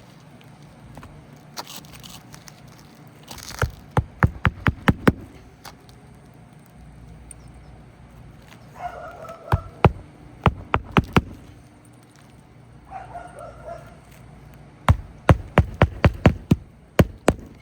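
Hammer driving roofing nails into asphalt shingles, three bursts of quick strikes at about three to four a second. Two short pitched cries are heard between the bursts.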